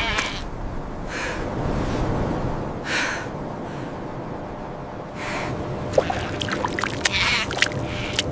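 Loud puffs of breath about every two seconds, with scattered sharp clicks near the end.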